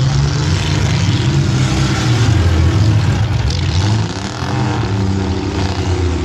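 Engines of compact demolition derby cars running and revving, their pitch rising and falling, with a dip in level about four seconds in.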